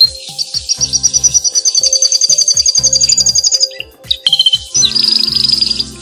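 Domestic canary singing in rapid trills: one long, fast trill lasting about three seconds that climbs slightly in pitch, then a shorter trill about five seconds in.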